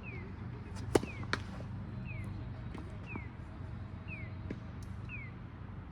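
Tennis ball struck by rackets: a sharp pop about a second in, another a third of a second later, and fainter ones later on. Throughout, a short high falling chirp repeats about once a second.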